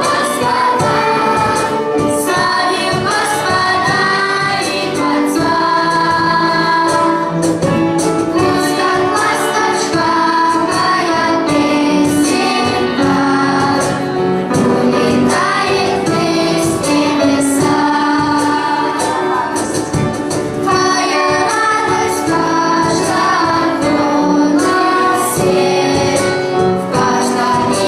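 A children's choir singing a song with instrumental accompaniment and a steady beat.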